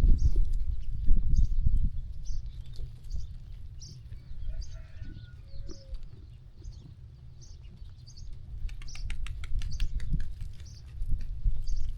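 A small bird chirping over and over, one short high chirp about every second, over a steady low rumble that is loudest at the start. About nine seconds in comes a quick run of clicks.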